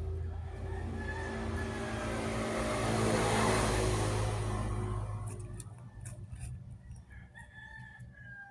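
A motor vehicle passing by, its sound building to a peak about halfway through and fading away over about five seconds.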